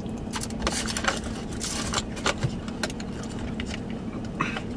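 Steady low hum of an idling car heard from inside the cabin, with scattered short clicks and crackles on top.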